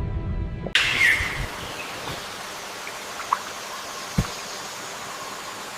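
Steady rushing of flowing stream water, cutting in abruptly under a fading low music passage within the first second, with a soft low thud about four seconds in.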